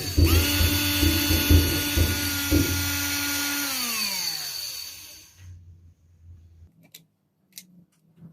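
Maktec MT081 cordless drill's motor running at a steady high speed with a few knocks under the whine, then the trigger released and the motor spinning down, its pitch falling away over about a second and a half. A few faint clicks follow near the end.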